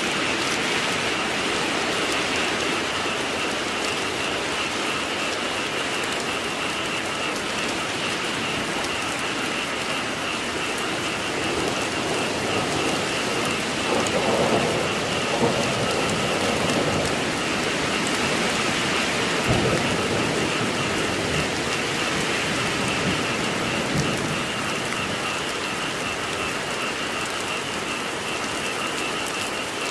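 Steady rain falling and pattering on surfaces, with a low rumble of thunder swelling about halfway through.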